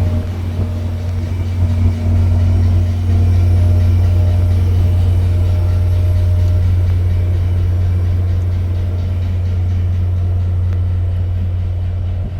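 Steady low drone of the standing VIA Rail train's diesel locomotives idling close by, with a few faint higher tones above it that fade out about halfway through.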